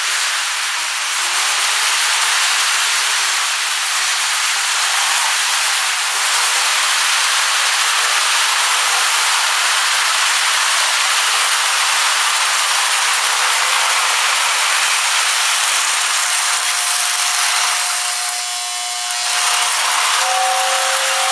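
Lionel 6466 tender's motor-driven air whistle blowing a steady breathy hiss. Its two-note chord comes through faintly near the end.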